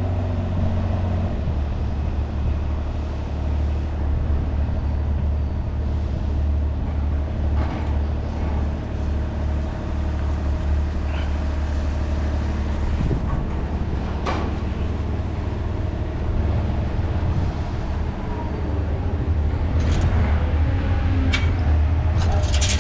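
Truck engine running steadily with a low drone that drops slightly in pitch about a second in, with a few short clicks in the second half and a cluster of clicks near the end.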